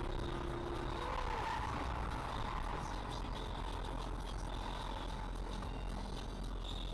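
Steady motor traffic and road noise picked up by a dashcam, even throughout with no sharp impacts.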